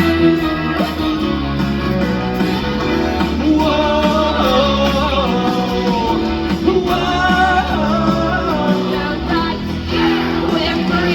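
Rock music with a singer over guitar and a steady bass line.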